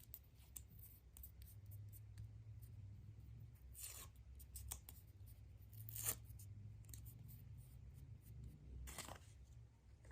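Hands handling a surprise egg's wrapping: faint rustling with many small clicks, and three louder scraping swishes, about four, six and nine seconds in.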